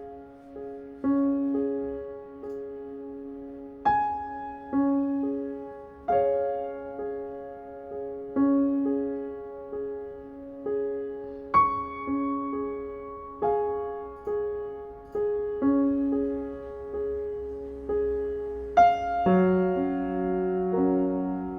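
Slow, gentle solo piano background music: single notes and soft chords struck about every second or two and left to ring and fade. Lower notes join in near the end.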